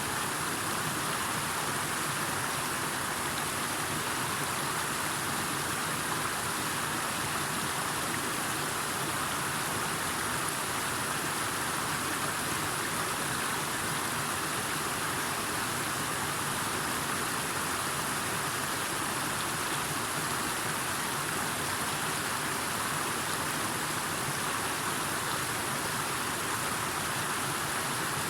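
Steady, unbroken rush of water, even and constant throughout, with a thin high-pitched hiss held steady above it.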